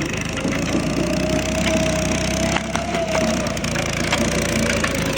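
Small petrol engine of a roller running steadily, with a wavering whine over it and scattered crackling clicks.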